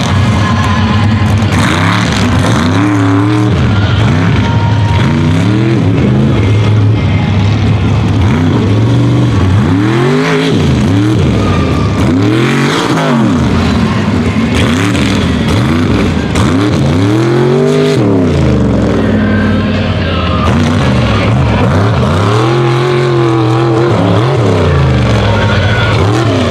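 Unlimited-class mega truck engines revving hard, the pitch climbing and dropping over and over as the throttle is opened and let off.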